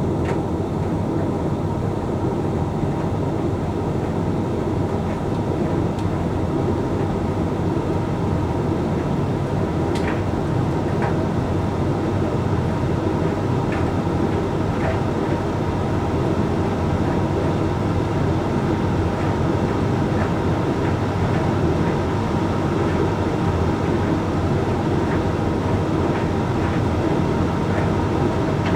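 Hoover Link X Care HLX C10DRGR condenser tumble dryer running mid-cycle on a load of whites: a steady drum-and-motor hum with occasional light ticks.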